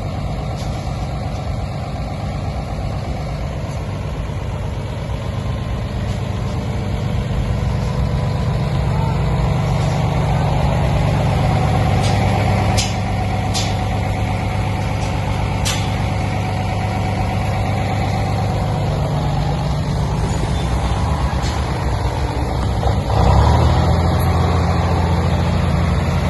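Heavy diesel earthmoving machinery running steadily, its engine working a little harder from about a third of the way in. There are a few short, sharp sounds around the middle, and the engine jumps up in level near the end.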